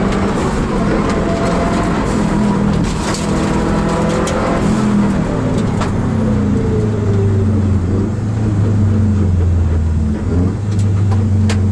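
Rally car engine heard from inside the cockpit, revving hard under acceleration with a few sharp clicks. About six seconds in the revs fall and the engine settles into a low, steady note.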